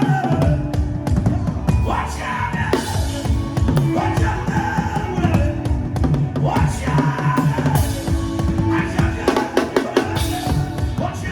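Drum kit played in a fast, dense rhythm with heavy bass drum, over a music backing with a gliding melodic line above it.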